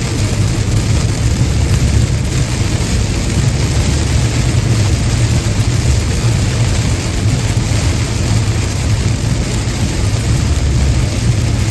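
Car driving at highway speed in the rain: a steady low drone from the tyres and engine under an even hiss of rain and wet road spray.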